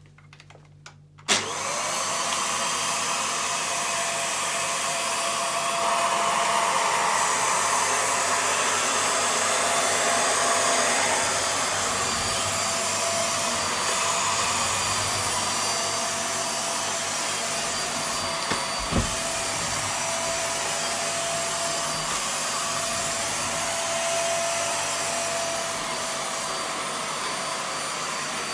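VAX Air Stretch Pet Max upright vacuum cleaner switched on about a second in, then running steadily with a constant motor whine as it is worked over carpet, with a couple of knocks about two-thirds through. Its suction is gripping and pulling up the carpet because the suction slider was pushed over the vents.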